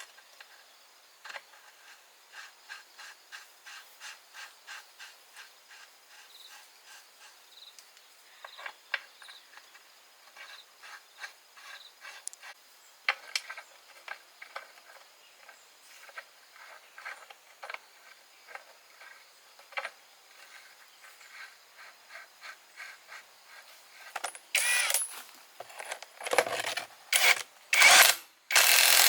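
A hand tool working at a surface in quick, even scraping strokes, about three a second, typical of cleaning or rust removal on an old machine being restored. Near the end come a few louder, longer strokes.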